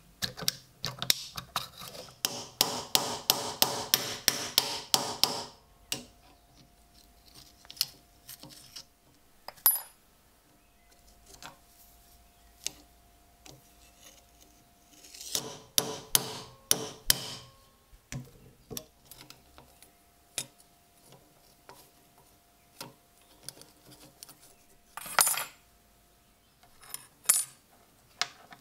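A small hammer tapping on metal: a quick run of blows, about four a second, near the start. Scattered clicks and knocks of small tools follow, with a second cluster of taps about halfway through.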